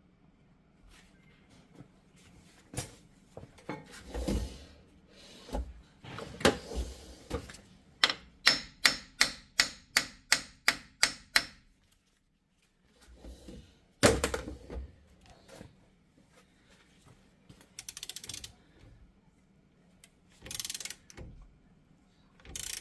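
Hand tools knocking and clicking on steel while a seized front wheel hub bearing is worked out of a 2018 Jeep Wrangler's knuckle. Near the middle comes a quick, even run of about a dozen sharp metallic strikes, and a few seconds later one hard knock.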